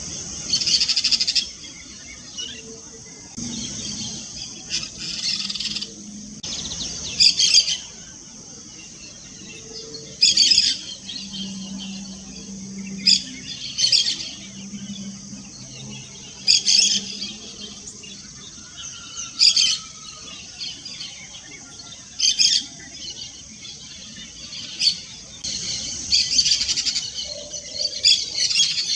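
Yellow-chevroned parakeets calling: short, shrill, high-pitched chirps every couple of seconds, with longer runs of chatter at the start and near the end.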